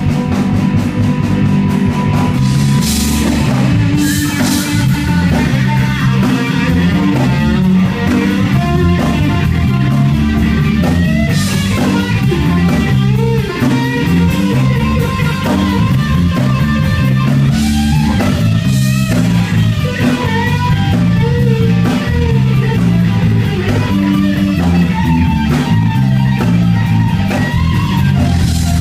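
Live rock band playing an instrumental passage with no singing: electric guitar over bass guitar and drum kit, steady and loud throughout.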